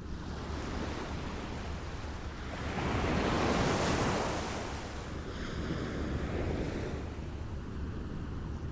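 Small waves lapping at the shore: one wave swells and washes in about three seconds in, a smaller one follows around six seconds in, over a steady low rumble of water and wind.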